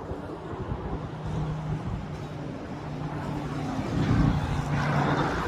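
An engine running steadily with a low hum over general outdoor noise, growing a little louder about four seconds in.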